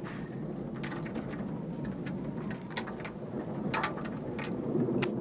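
Storm outside: a steady low rumble of wind and thunder that swells toward the end, with scattered sharp clicks.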